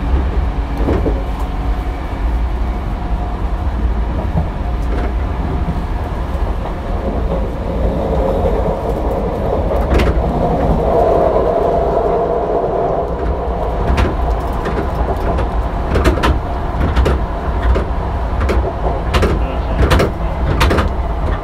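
Hankyu 3300-series electric train running, heard from inside a car: a steady low rumble of wheels and running gear. Around the middle a humming tone swells and fades. In the last third come many sharp clicks of the wheels over rail joints.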